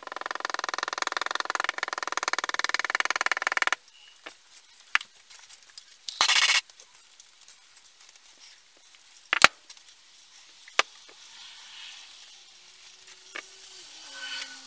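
A small power tool runs with a fast buzz for nearly four seconds and stops suddenly. About two seconds later comes a short hiss, then a few sharp clicks.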